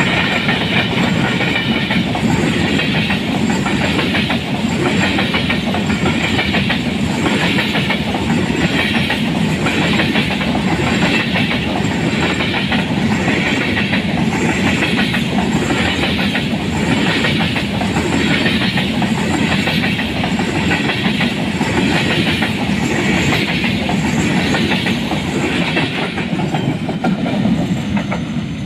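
Freight wagons of a goods train rolling past close by, the wheels clattering in a steady rhythm on the track under a constant rumble. The sound eases off near the end as the last of the train goes by.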